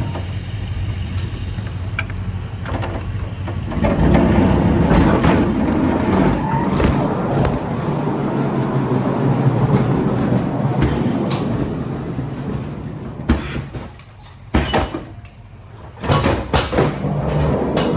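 A truck engine running at idle, with scattered knocks and clatters over it; it grows louder and rougher for several seconds, then drops away briefly near the end.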